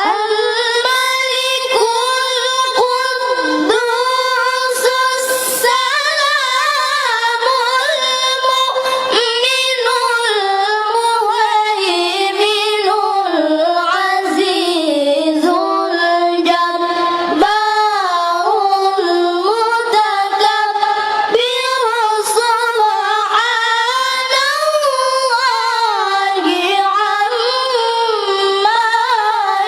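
A young female voice chanting Quran recitation in a slow, ornamented melodic style (tilawah), with long held notes and gliding, melismatic turns.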